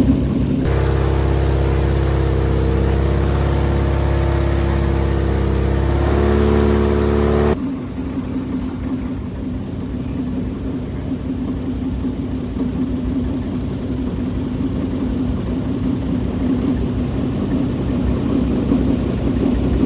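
Airboat engine and propeller running steadily, rising slightly in pitch about six seconds in. About a second later the sound changes abruptly to a rougher, steady drone.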